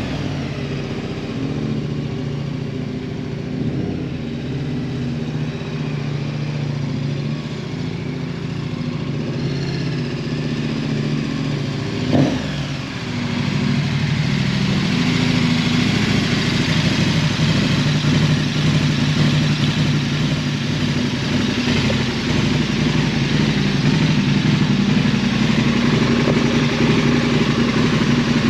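KTM 1290 Super Adventure's V-twin engine running steadily. There is a sharp knock about twelve seconds in, and the sound is louder from then on.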